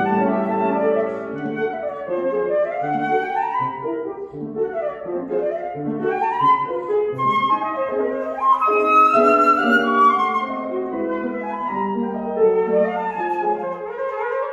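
Flute and piano playing classical music together, the flute carrying quick runs of notes that sweep up and down over the piano accompaniment.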